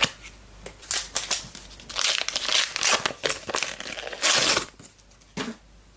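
Crinkling and tearing of a trading card pack's wrapper as it is ripped open and handled, in irregular bursts, the loudest about four seconds in, with a short last crinkle near the end.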